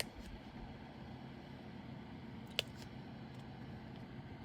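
Diamond-painting drill pen placing resin drills on the canvas: a sharp click right at the start and another about two and a half seconds in, over a steady low background hum.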